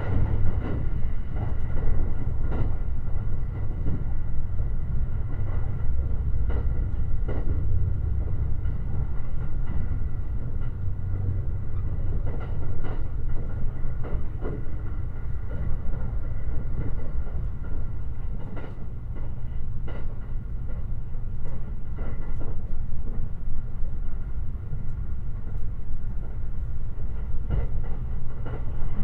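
Limited Express Shirasagi electric train running along the line, heard from inside a passenger car. There is a steady low rumble, scattered clicks of the wheels over the rails, and a faint steady high whine.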